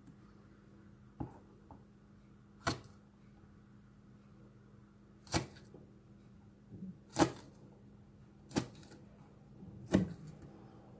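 A kitchen knife chopping chives on a cutting board: six single sharp knocks, spaced one to two and a half seconds apart.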